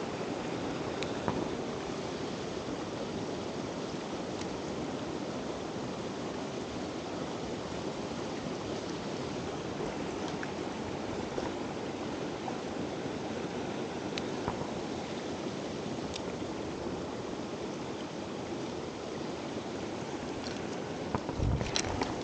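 Mountain stream water rushing steadily over rocks, with a few faint ticks and a short knock near the end.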